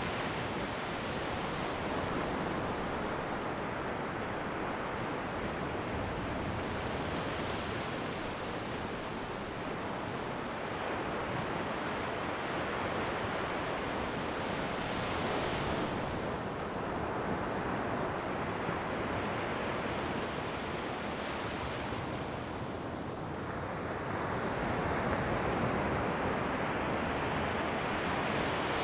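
Ocean waves breaking and washing onto the shore, a steady rush of surf with a wave cresting every several seconds, with some wind.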